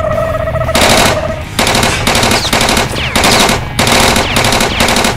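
Automatic gunfire in several rapid bursts separated by short gaps, starting under a second in. A steady held tone sounds at the start and stops as the firing gets going.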